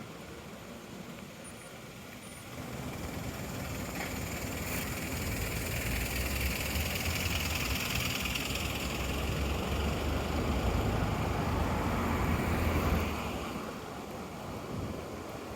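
A strong gust of wind swelling through ginkgo trees, the leaves rustling loudly, with a low wind rumble on the microphone. It builds a few seconds in and eases off near the end.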